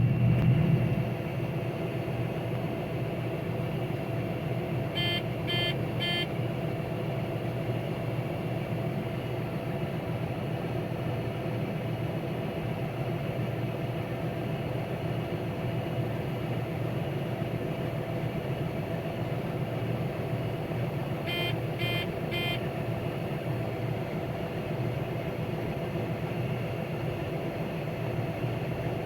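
Combine harvester running steadily while cutting wheat, heard inside the cab as an even machine hum. Two sets of three short electronic beeps, about five seconds in and again about sixteen seconds later.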